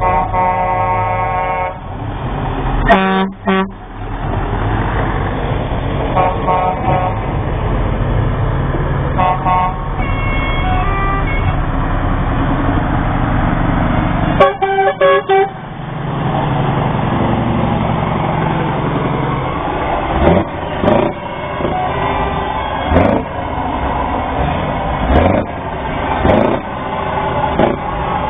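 Lorry air horns sounding in a series of blasts, some long and some short, over the steady rumble of passing diesel trucks. Near the end comes a run of short rising sounds about once a second.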